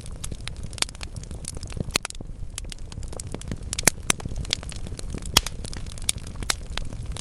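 Wood fire burning in a fireplace: constant crackling of burning logs with a low rumble underneath, and sharper pops about two, four and five and a half seconds in.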